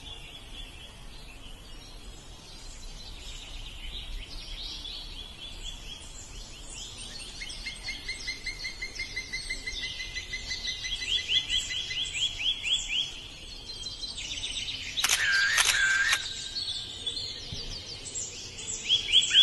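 Several songbirds singing in spring woodland: overlapping trills and rapid runs of repeated notes, with two louder, harsher sounds about fifteen seconds in.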